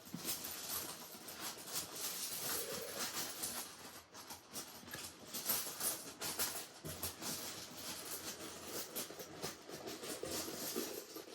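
Oracle cards being handled and shuffled by hand: continuous papery rustling with many small clicks and flicks.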